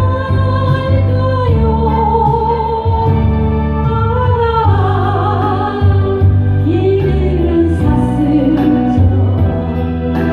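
Music: a Korean ballad sung live over a backing track, with long held melody notes over steady bass and regular hi-hat ticks.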